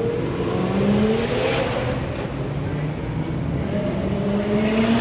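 Car engine accelerating, its note rising in pitch twice, once in the first second and a half and again near the end, over a steady rumble of running engines.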